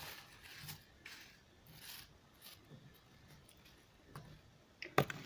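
Faint rustling and scraping of hands handling raw fish, with a sharp click near the end.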